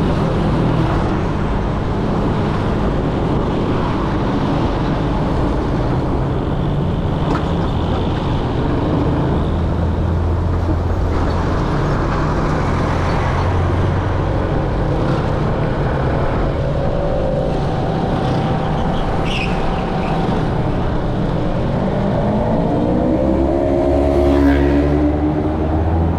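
A motorcycle riding through dense street traffic: its engine running under a steady rumble of many other motorbike engines and road noise. Near the end an engine revs up, rising in pitch.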